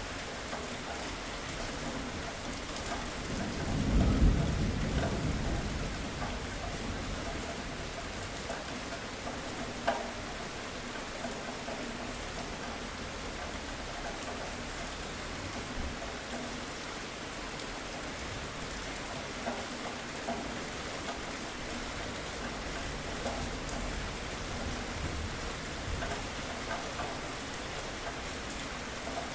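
Steady rain falling, with a low rumble of thunder that swells about four seconds in and fades over the next two seconds, plus a single sharp tap near ten seconds.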